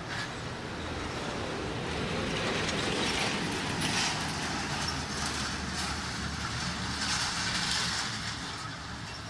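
Heavy diesel earthmoving machinery at work: a steady engine hum with bouts of metallic clatter that swell and fade a few times.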